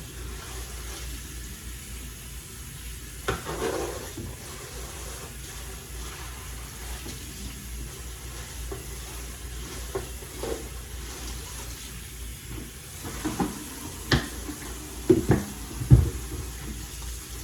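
Hot tap water running into a kitchen sink while raw chicken wings are washed, with a few knocks and clatters near the end as things are handled in the sink.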